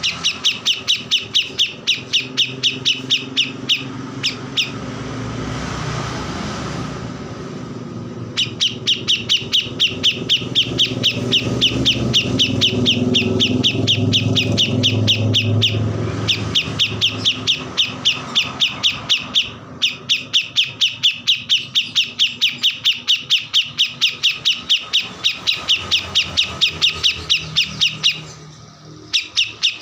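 A songbird that Indonesian bird-keepers call a kores sings in long runs of sharp, evenly repeated chirps, about four a second, with a few short pauses. A low rumble runs underneath and is loudest in the middle.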